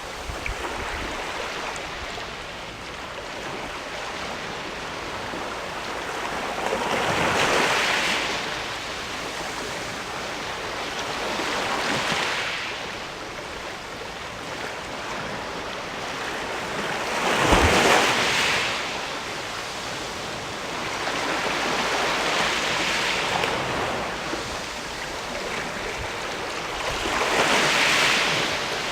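Sea waves washing against a rocky shore, swelling and ebbing about every five seconds; the largest wave, about two-thirds of the way through, lands with a low thud.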